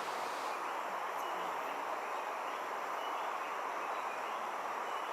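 Steady rushing outdoor background noise, with a few faint, short high peeps scattered through it.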